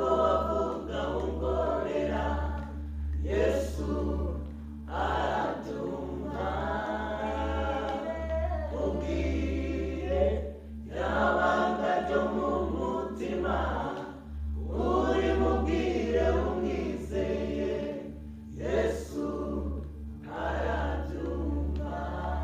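A group of voices singing a hymn in phrases, with a steady low hum underneath.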